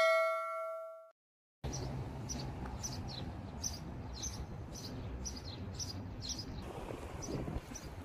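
A bright electronic chime rings out and fades within about a second. After a short silence, birds chirp repeatedly in quick short notes over a steady low rumble of wind on the microphone.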